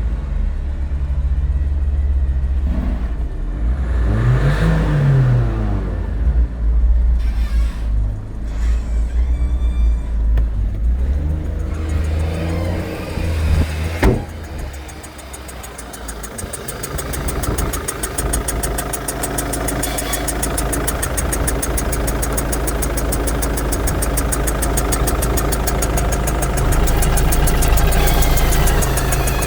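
Ford Focus 1.6 TDCi diesel engine (G8DA) running, revved up and down several times in the first half, then settling to a steadier run, with a short rise in revs near the end. A single sharp click about halfway through.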